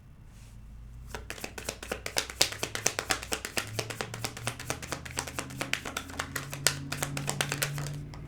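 Tarot cards being shuffled: a quick run of light card clicks that starts about a second in and stops near the end.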